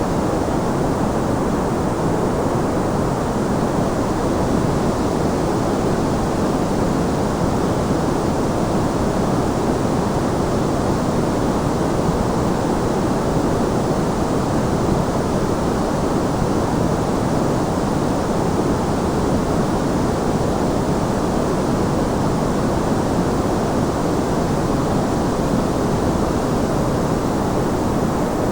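Steady, unchanging white noise, a smooth rushing hiss weighted toward the low and middle range, with the highs rolled off.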